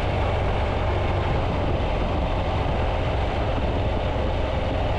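Triumph Tiger 800's three-cylinder engine running steadily at low road speed, under an even rush of wind and road noise.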